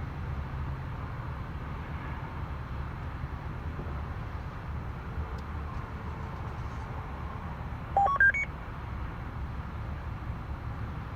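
A quick run of four short electronic beeps, each higher than the last, about eight seconds in, over a steady low rumble.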